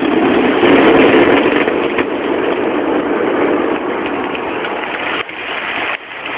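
Fireworks finale heard through a mobile phone's microphone: many overlapping bursts and crackles blurred into one continuous, distorted noise, loudest about a second in and easing off, with two brief drops near the end.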